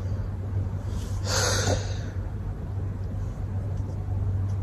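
A steady low hum, with one short breathy exhale about a second in.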